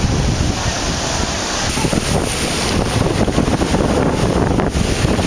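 Stormy sea surf crashing and washing ashore under strong wind that buffets the microphone with a steady rumble.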